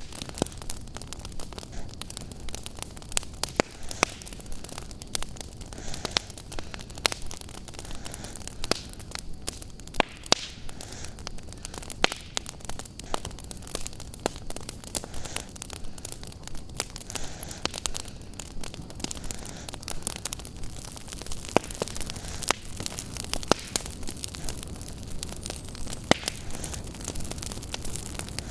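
Wood fire crackling in a fireplace: frequent sharp pops and snaps at irregular intervals over a steady low hiss and rumble.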